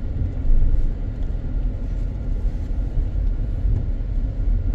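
Steady low rumble of a car driving slowly, road and engine noise as heard from inside the cabin.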